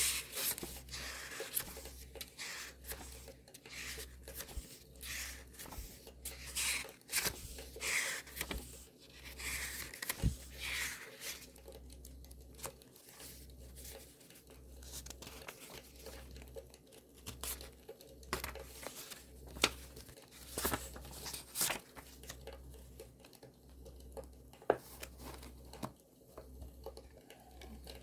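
Paper being torn and crinkled by hand, with rustling sweeps in the first half and scattered sharp clicks and crackles throughout.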